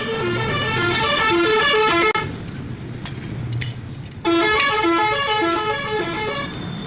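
Multi-note musical vehicle horn playing a short tune, then the same tune again after a pause of about two seconds.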